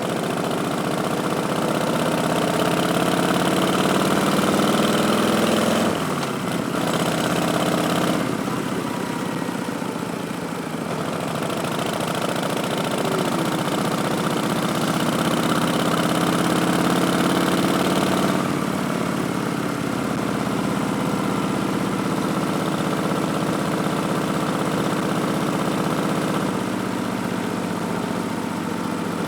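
2019 Harley-Davidson Street Bob's Milwaukee-Eight V-twin running through Vance & Hines Twin Slash slip-on mufflers as the bike is ridden. The engine note climbs steadily in pitch under throttle, then falls back sharply about six seconds in, again near eighteen seconds, and once more near the end.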